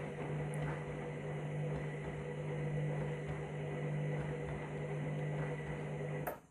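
Candy washing machine running in its main wash, a steady mechanical hum with a hiss over it, which stops abruptly with a click near the end.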